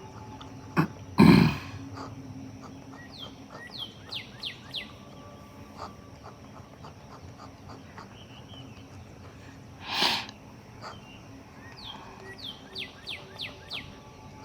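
A person coughs once about a second in, with a second short breathy burst, like a sniff or sneeze, near ten seconds. Between them a bird sings twice, each time a run of four or five quick falling whistles.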